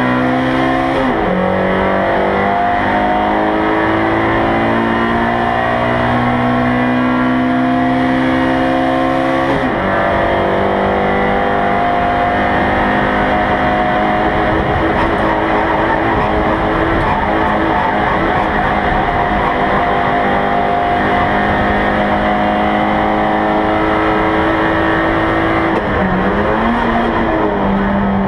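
Race car engine at full throttle, heard inside the stripped, roll-caged cabin. The engine's pitch climbs and drops sharply as it shifts up, about a second in and again near ten seconds, then holds high with a brief dip near the end.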